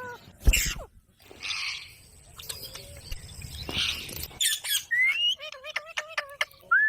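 Green parrot squawking harshly a few times, then a quick run of chirps and clicks with short rising whistles.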